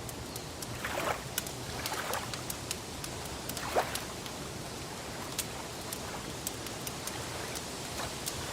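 Wood fire crackling, with frequent sharp pops over a steady hiss, and a few soft swishes of lapping water about one, two and four seconds in.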